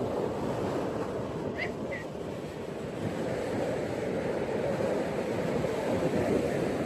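Ocean surf washing on a beach, a steady rush of breaking waves that swells a little about halfway through. Two brief high chirps sound over it about a second and a half in.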